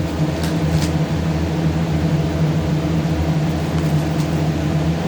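A steady machine hum holding one pitch, with a couple of faint clicks in the first second.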